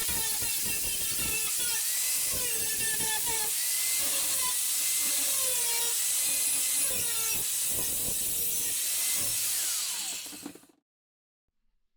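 Angle grinder with a cut-off disc cutting sheet steel for a patch panel: a steady hiss with a whine that dips in pitch under load and recovers, cutting off suddenly near the end.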